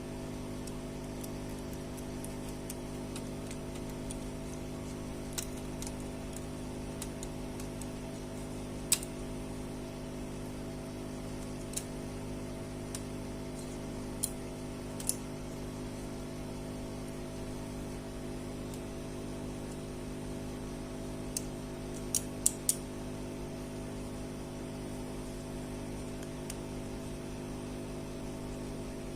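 A steady low hum throughout, with about ten sharp, isolated clicks scattered through it, three of them in quick succession a little past two-thirds of the way in.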